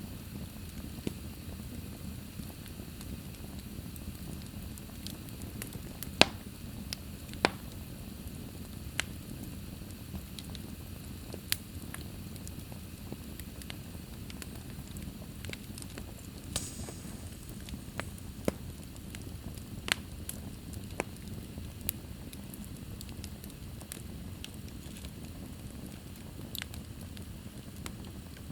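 Fire crackling in a fireplace: a steady low rumble of flames with about a dozen sharp pops and snaps at irregular intervals.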